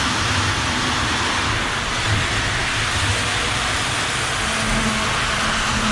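Model steam locomotive running along the layout track with its smoke unit going: a steady whirring hiss of motor and wheels, with a low hum joining about four and a half seconds in.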